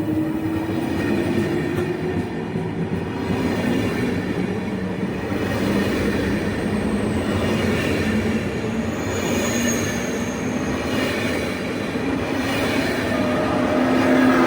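A train moving through a station: a steady rumble of wheels on rails with a low hum that drifts slightly in pitch.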